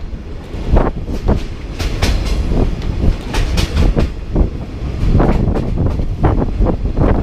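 Passenger train carriage rumbling along the track, with irregular loud clanks and knocks from the wheels and couplings, heard from aboard the moving train.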